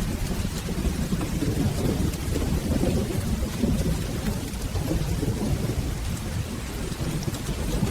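Steady rain with a continuous low rumble of rolling thunder underneath.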